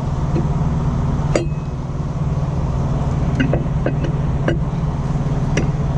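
Truck engine idling steadily, with a few light metallic clinks as metal parts are handled and fitted, one sharper ringing clink about a second and a half in.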